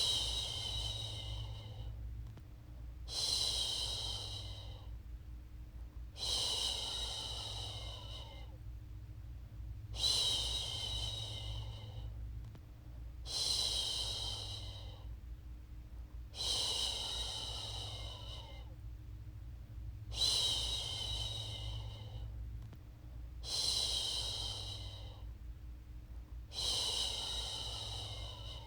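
A woman's voice shushing a baby to sleep, "shhh" over and over: nine long shushes, one about every three and a half seconds, over a low steady hum.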